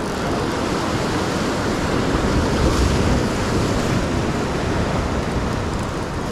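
Sea surf washing against shore rocks, a steady rushing noise, with wind buffeting the microphone.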